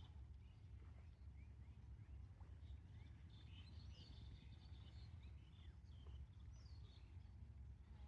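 Faint chirps and short calls of small birds, scattered throughout and busiest in the middle, over a low steady rumble.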